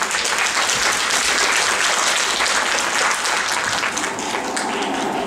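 Audience applauding steadily, with the clapping easing near the end as music begins.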